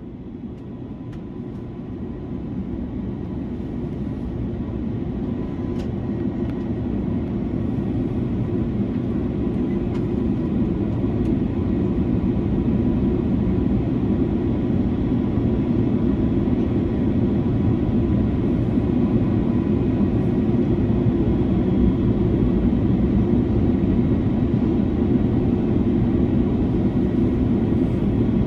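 Steady cabin noise of an Airbus A330-300 airliner at cruise: a deep, even rush of airflow and jet engines, with a faint steady tone above it. It fades up over the first several seconds and then holds level.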